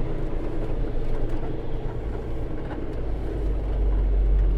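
Semi truck's diesel engine running as the truck is driven slowly into a parking spot, a low rumble that grows louder about three seconds in.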